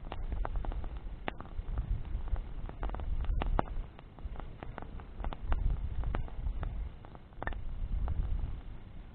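Bonfire crackling, with irregular sharp pops and snaps from the burning wood, over a low rumble that swells and fades every few seconds.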